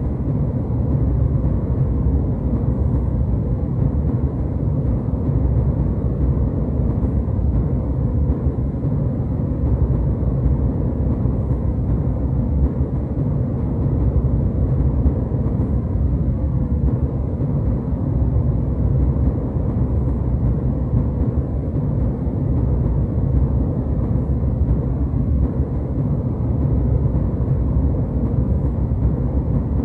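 Steady low rumble of a jet airliner's engines and rushing air, as heard inside the cabin in flight.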